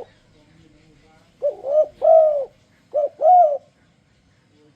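Spotted dove (tekukur) cooing: a three-note 'kuk-kuk-kurrr' phrase, then a shorter two-note coo about a second later, each ending in a longer, slightly rising-and-falling note.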